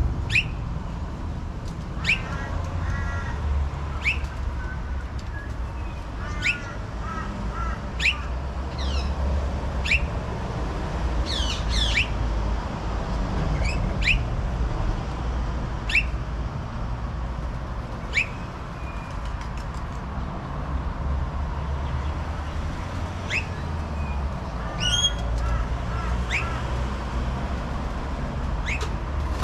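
A bird calling over and over: a short, sharp squawk falling steeply in pitch about every two seconds, with a few bursts of rapid chattering in between. A steady low rumble runs underneath.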